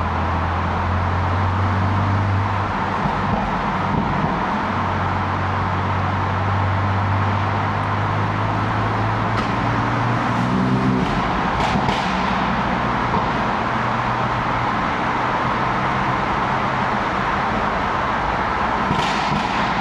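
BMW F80 M3's twin-turbo straight-six running at low revs in city traffic: a steady low drone over road noise that rises in pitch briefly about ten seconds in.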